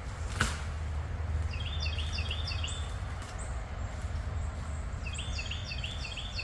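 A songbird singing two runs of about four quick repeated phrases, each a short downward note over a hooked lower note, with a pause between the runs. A single sharp click comes about half a second in, over a steady low rumble.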